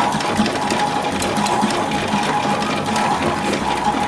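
Casdon electronic toy washing machine running a wash cycle: its small motor turns the drum with a steady whine and a fast rattle.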